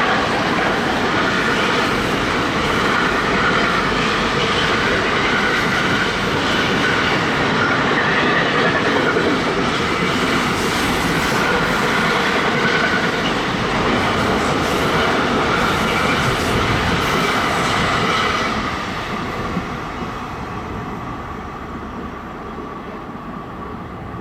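A train passing close by on the track, a loud steady noise of wheels on rails that lasts about eighteen seconds, then fades away as it leaves.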